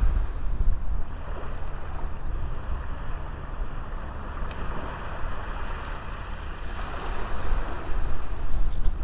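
Ocean waves breaking and washing on a small beach, swelling near the start and again near the end, with wind rumbling on the microphone.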